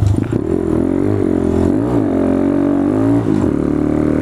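Motorcycle engine running while riding a dirt trail, with short throttle changes: the pitch dips and comes back up about two seconds in and again near three seconds.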